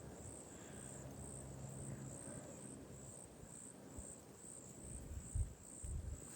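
An insect chirping steadily in short high-pitched pulses, about two a second, over a low rumble, with a couple of soft low thumps near the end.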